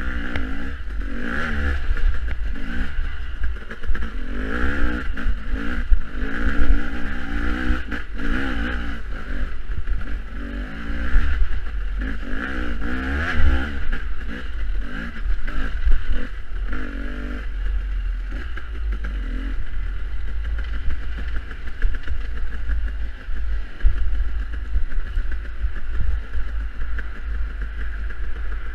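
Off-road dirt bike engine being ridden hard, its pitch rising and falling again and again as the throttle opens and closes, then steadier for the last third, over a heavy low rumble.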